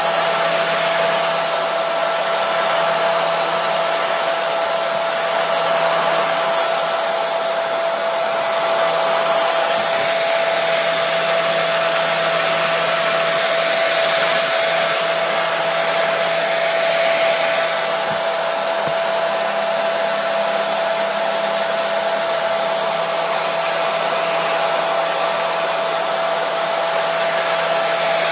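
Hair dryer running steadily: a continuous rush of blown air with a constant whine from its motor, unchanging throughout.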